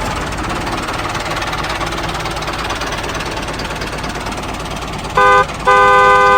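Tractor engine running steadily, then a vehicle horn sounds twice: a short toot followed by a longer one of about a second.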